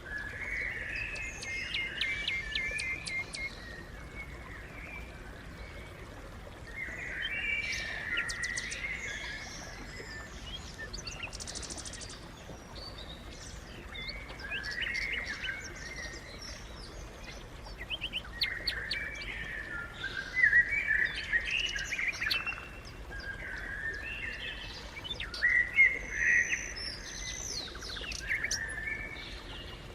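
Sparrows chirping in repeated bouts of short, bright chirps with quieter gaps between.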